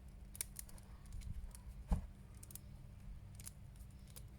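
Faint clicks and light taps of small plastic action-figure parts being handled, with one firmer knock about two seconds in.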